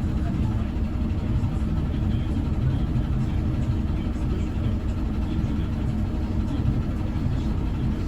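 Mercedes-Benz O405N2 city bus heard from inside the cabin: a steady, low engine and running-gear rumble at an even level.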